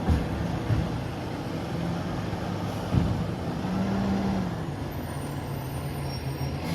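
Freightliner M2 garbage truck's engine running steadily, with a few short knocks: one at the start, one just under a second in, and the loudest about three seconds in.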